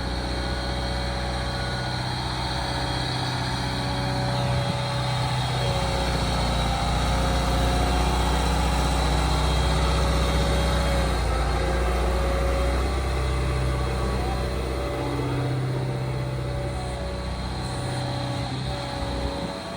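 Liebherr R926 compact tracked excavator's diesel engine running, with a steady high whine over it. The engine grows louder for several seconds in the middle, as if under load, then settles back.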